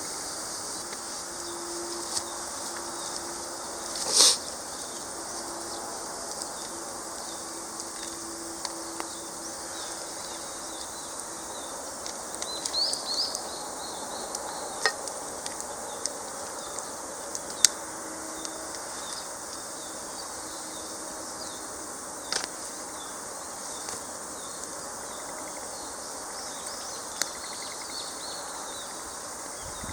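Wood campfire crackling with scattered sharp pops, the loudest about four seconds in, over a steady high insect drone. A bird chirps in a short run about halfway through.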